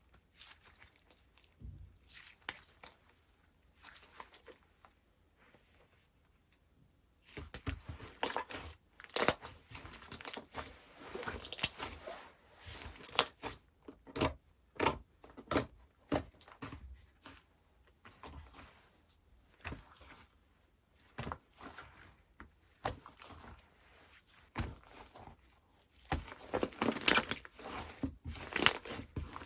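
Slime being squeezed, poked and stretched by hand, making crackling clicks, pops and crunches. Soft and scattered at first, then after a brief lull, denser and louder from about seven seconds in.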